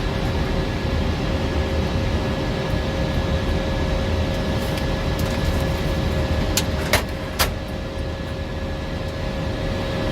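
Steady flight-deck noise of an Airbus A320 in flight: airflow and engine rumble with faint steady tones from the cockpit equipment. About two-thirds of the way through there are three sharp clicks in quick succession.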